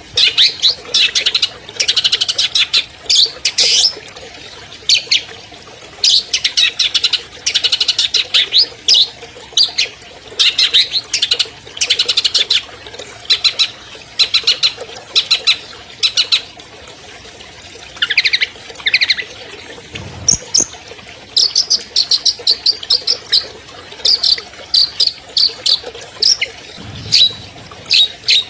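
Long-tailed shrike (cendet) singing: loud bursts of rapid, sharp high chattering notes, each a second or two long, repeated with short pauses.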